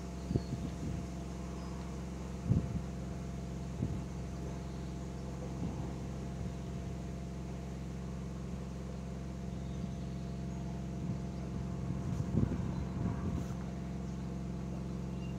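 Steady hum of an electric narrowboat's drive running at constant speed, with a few brief low knocks.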